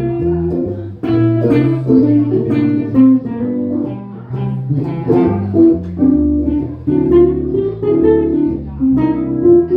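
Instrumental music: plucked string notes, guitar-like, played over a steady bass line.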